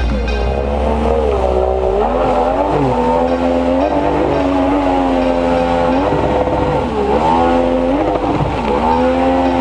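Outboard motor driving a water-jet on a jet boat, running hard with its revs dropping and climbing again several times, about four dips in all.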